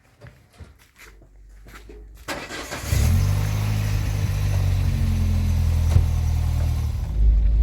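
A vehicle engine starts about three seconds in and then runs steadily, its low note shifting near the end.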